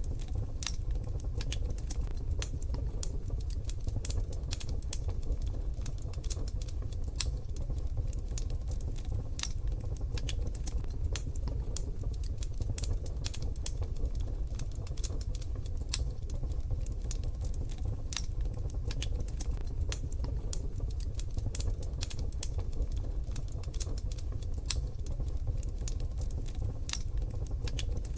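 Wood fire in a wood-burning stove crackling: irregular sharp pops and ticks over a steady low rumble.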